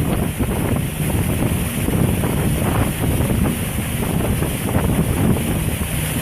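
Wind buffeting the microphone: a steady, gusting rumble.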